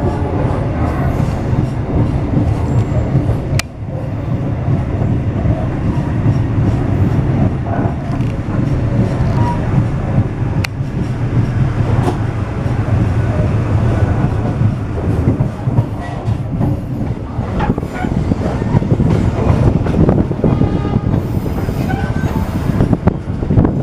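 Passenger train running on the rails: a steady low rumble with wheel clatter and a couple of sharp clicks.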